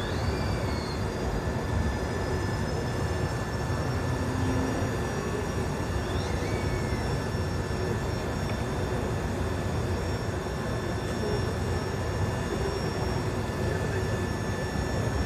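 An engine running steadily on a test run: a continuous drone with a faint steady high whine over it.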